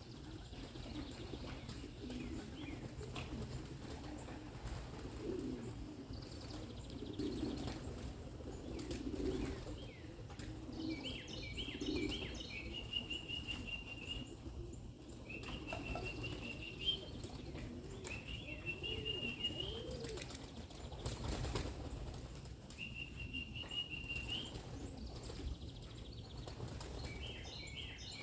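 Pigeons cooing low with bursts of wingbeats as flight pigeons flap around the loft. From about ten seconds in, a small bird repeats a high thin call several times.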